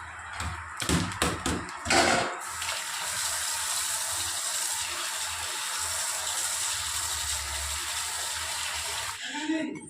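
Water running steadily from a tap, after a few clatters in the first couple of seconds; the flow cuts off shortly before the end.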